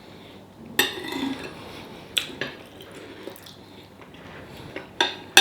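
Cutlery clinking and scraping against a plate while eating, a few separate knocks with the loudest one near the end.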